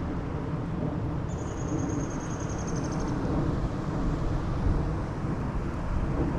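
Steady low rumbling outdoor background noise by the river, with no single clear event. For about two seconds near the start, a faint high-pitched, rapidly pulsing trill runs over it.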